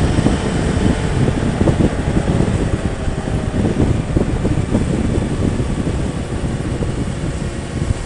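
Wind rushing and buffeting over the microphone of a motorcycle riding at speed, with road and engine noise underneath; the gusty rumble eases slightly toward the end.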